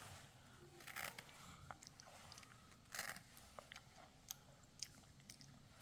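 Faint chewing and crunching of someone eating, with scattered small clicks and two short crunches about one and three seconds in.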